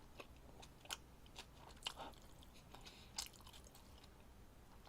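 Faint close-up mouth sounds of someone chewing food, with a few soft clicks and smacks about one, two and three seconds in.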